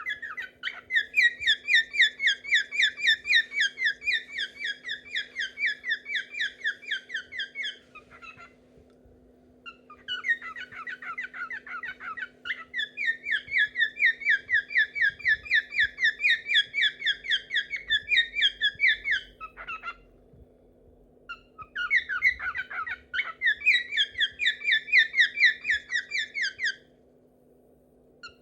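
Pet cockatiel singing into a room corner that echoes its song: three long runs of rapid, repeated warbling notes, about five a second, with short breaks between them.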